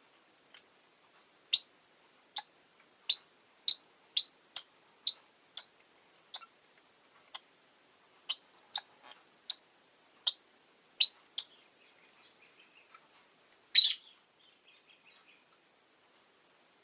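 Rosy-faced lovebirds chirping: a string of short, sharp, high chirps at irregular intervals, easing into faint soft chatter, then one louder, longer call near the end.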